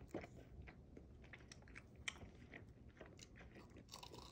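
Faint chewing, with small clicks scattered through it.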